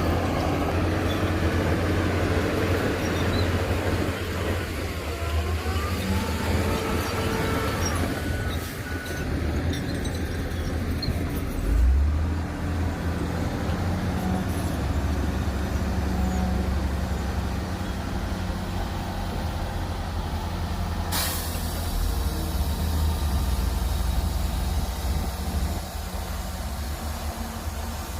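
Heavy diesel earthmoving machinery, bulldozer and dump truck, running steadily with a deep engine rumble. A short hiss cuts in about two-thirds of the way through.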